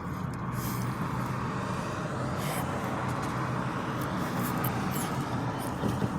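Steady engine and road noise from a car being driven, heard from inside the cabin.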